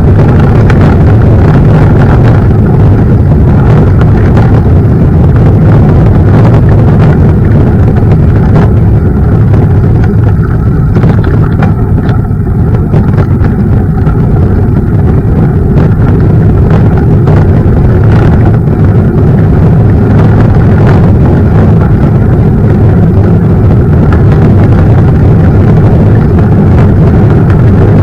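Wind buffeting the microphone on a moving mountain bike, heard as a continuous loud, low rumble with faint rattles and knocks from the bike on a rough trail. It eases a little around twelve seconds in.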